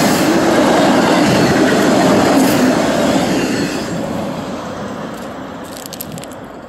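Union Pacific autorack freight train rolling past at close range, a steady rumble of wheels on rail that begins to fade about four seconds in as the last cars go by and the train moves away.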